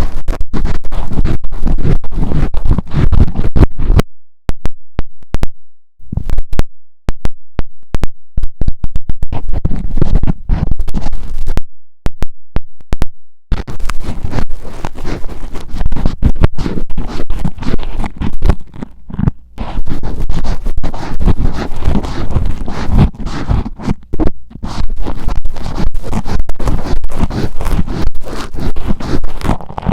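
Metal ear pick scraping and scratching inside a miniature microphone's ear, loud and close, in rapid rough strokes with a heavy rumble. The strokes pause twice, about four seconds in and about twelve seconds in, leaving only scattered light clicks.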